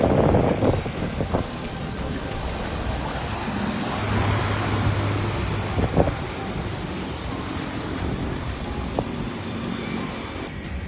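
Wind buffeting the microphone in a steady rush, with a vehicle engine running underneath and a few sharp knocks.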